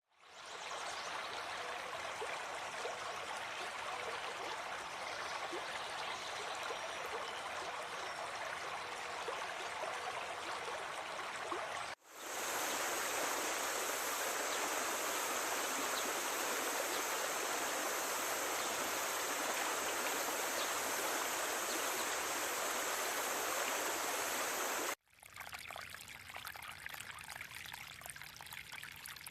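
Running water of a stream, an even rushing with no distinct calls. After about twelve seconds it cuts to a louder stretch with a steady high hiss on top, then near the end cuts again to a quieter stretch.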